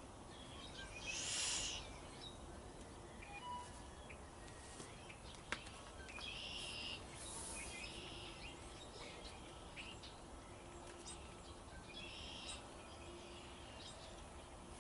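Quiet outdoor background with birds chirping now and then, and a single sharp click about five and a half seconds in.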